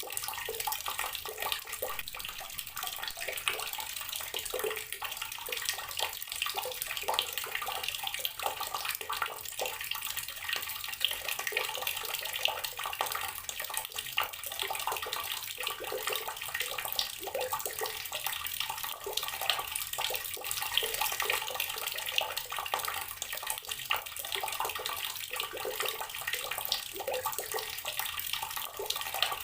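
Water tap running steadily outdoors, a continuous stream splashing onto the ground or into water below.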